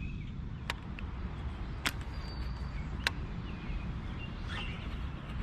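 Three sharp clicks a little over a second apart, typical of a rod and spinning reel being handled between casts, over a steady low rumble.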